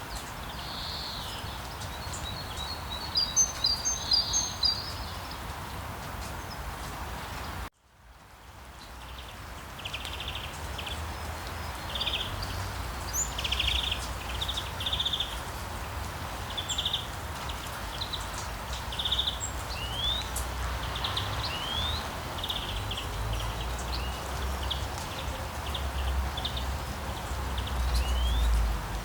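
Steady rain with small birds chirping over it, short calls repeating about every second or two, a few of them quick trills or rising slurred notes. Just before 8 seconds in, the sound cuts out abruptly and fades back in over a couple of seconds, the splice of a looped recording; a low rumble builds toward the end.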